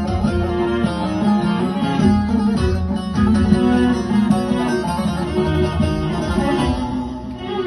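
Bağlama, the Turkish long-necked lute, playing a melody of quick plucked notes over fuller music with a strong bass.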